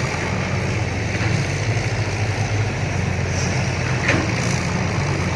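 Diesel engine of heavy earthmoving equipment running steadily under light load.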